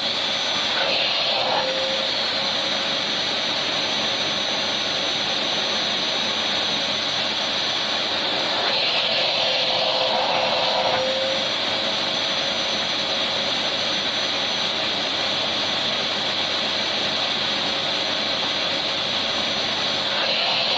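Electric vacuum cleaner running steadily: a continuous loud rushing of air with a faint high whine over it, shifting slightly in tone twice.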